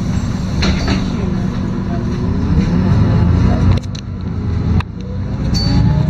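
LiAZ-5292.22 city bus heard from on board while under way: engine rumble with a drivetrain whine that falls and rises in pitch. About four and five seconds in the sound drops suddenly twice, then the whine climbs again as the bus picks up speed.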